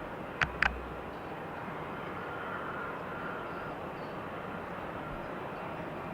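Steady rush of distant aircraft engine noise, with two sharp clicks close together about half a second in and a faint high whine for a few seconds.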